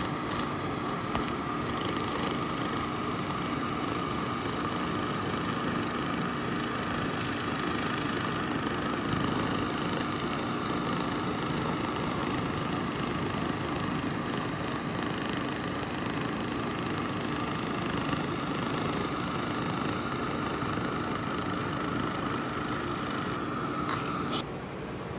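A 2000 W laser rust remover running steadily as it cleans rust off metal, a continuous hiss with a steady whine. About 24 seconds in it cuts off suddenly, leaving a quieter steady hiss from the running machine.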